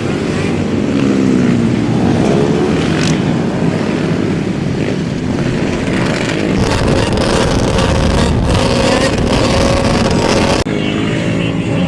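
Several dirt bike and ATV engines running and revving, their pitch rising and falling as they pass, with an abrupt cut to a different engine sound near the end.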